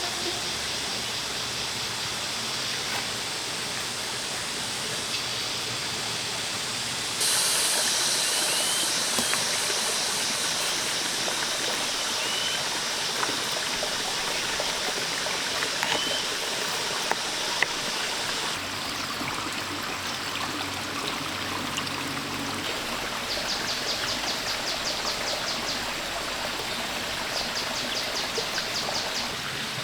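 Stream water running steadily, its sound changing abruptly about seven seconds in and again past halfway. A few short chirps come in the middle, and a fast pulsing trill near the end.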